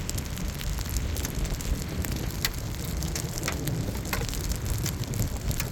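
Rain falling, with many scattered sharp drop hits and a steady low wind rumble on the microphone.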